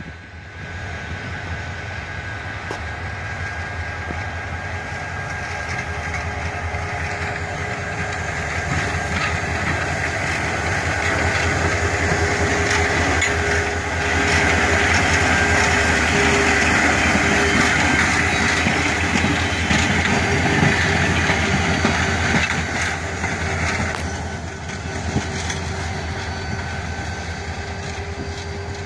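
Diesel-electric locomotive hauling a train past, its engine running with wheel and track noise. It grows louder as it approaches, is loudest for several seconds midway as it goes by, then eases off as it moves away.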